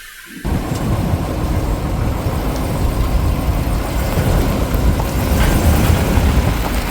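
Truck driving, a steady engine and road rumble that starts abruptly about half a second in.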